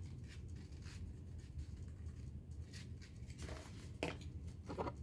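Paper being handled and rustled during crafting, with scattered short crinkles and scrapes over a low steady hum.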